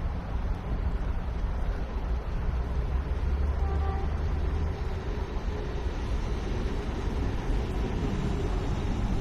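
Storm wind buffeting the microphone: a steady, fluctuating low rumble with a hiss above it.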